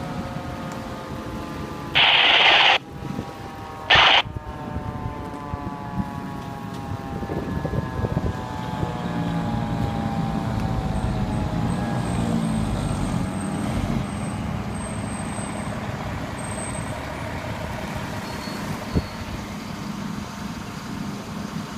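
A fire truck siren winding slowly down in pitch over the first dozen seconds while the truck's engine runs. Two loud, short hisses of air sound about two and four seconds in, the first longer than the second.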